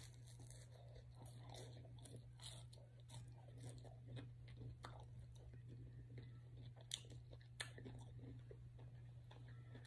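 Faint chewing and biting on lemon pepper chicken wings, with a few soft crunches and sharp little clicks scattered through, over a steady low hum.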